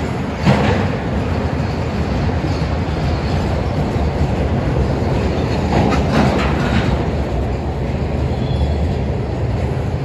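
Union Pacific freight train's loaded flatcars rolling past close by: a steady rumble of steel wheels on rail, with a sharp clank about half a second in and a cluster of clacks around six seconds in.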